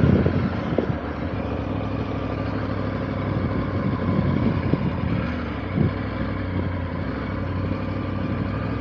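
Motorcycle engine running steadily with a low, even note, with road and wind noise and a few small knocks over it.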